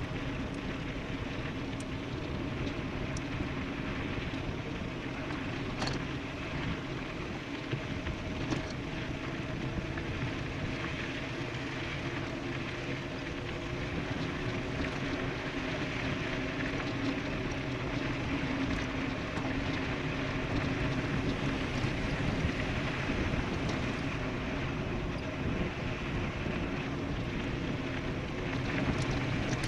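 Wind rushing over the microphone with steady tyre and drivetrain hum from an e-bike riding fast downhill, plus a few faint ticks.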